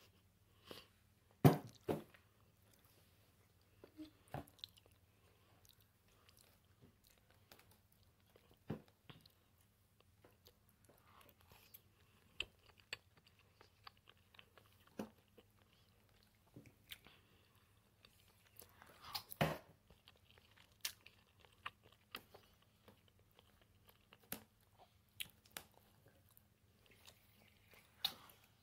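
A person chewing and biting food close to the microphone while eating a macaroni dish, with scattered soft clicks. Two louder sharp sounds come about a second and a half in and around twenty seconds in.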